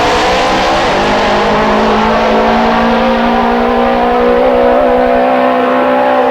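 Funny bike drag-racing motorcycles at full throttle during a quarter-mile pass. The loud, high engine note climbs slowly in pitch for the first few seconds, then holds steady.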